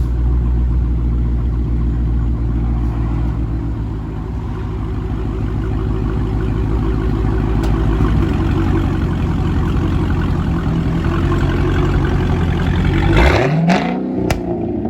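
Straight-piped, catless Acura TL V6 with no cats or muffler, running loud and steady with a deep, even exhaust drone. About 13 seconds in it shuts off, the pitch falling away as it winds down, with a couple of sharp clicks.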